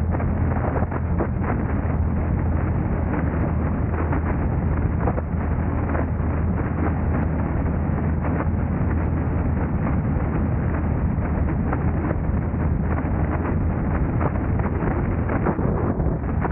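Driving noise from a moving car: a steady low rumble of road and wind with frequent irregular clicks and knocks.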